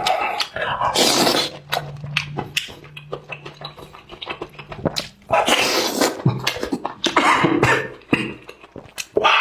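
Close-up eating sounds: enoki mushrooms being slurped in three noisy bursts, with wet chewing and lip-smacking clicks throughout.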